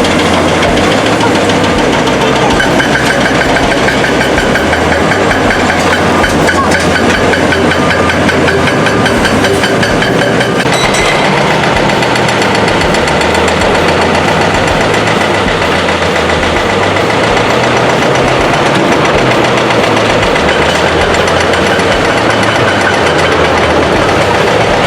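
Diesel engine of heavy construction machinery running steadily, its sound shifting about ten seconds in.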